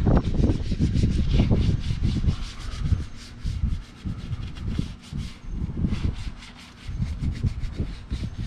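Detailing brush scrubbing engine-bay surfaces in quick, repeated strokes, over low thuds and rumble.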